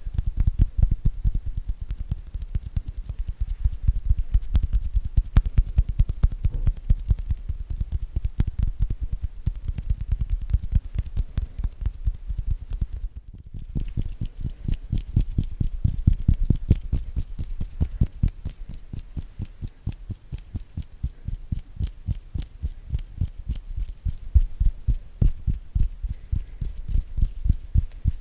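Hands making sounds close to a sensitive ASMR microphone: a rapid, continuous run of soft low thuds and rubs from patting, tapping and rubbing, stopping for a moment about 13 seconds in.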